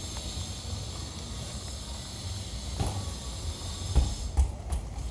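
Steady rain hiss with a low rumble underneath, broken by a few sharp thumps: one about three seconds in and a quick cluster of three near the end.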